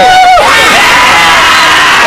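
A group of young people shouting and cheering together in long, loud held yells, several voices at once.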